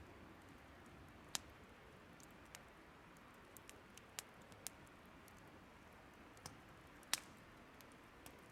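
Wood fire crackling faintly, with scattered small snaps and two louder pops, about a second in and about seven seconds in, over a soft steady hiss.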